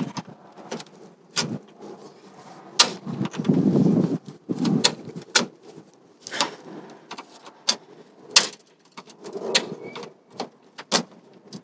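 Sharp plastic clicks and knocks, with a rubbing scrape about four seconds in, as a factory plastic engine-bay fender shroud is worked and pried off its push clips.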